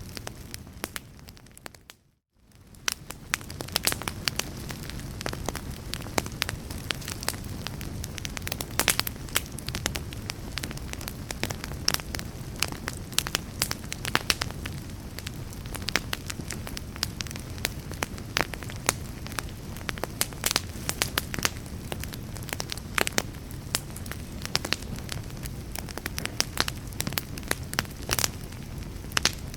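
Wood fire crackling and popping: many sharp snaps over a steady low rumble of flame. About two seconds in, the sound fades briefly to silence and then fades back up.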